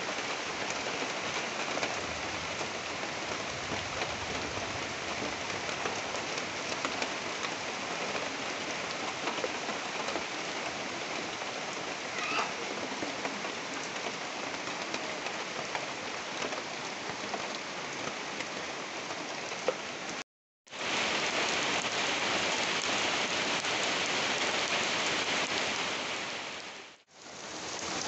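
Steady heavy rain falling on trees and corrugated tin roofs, with water dripping off the roof edge. The sound cuts out for a moment about twenty seconds in and comes back a little louder, then dips briefly near the end.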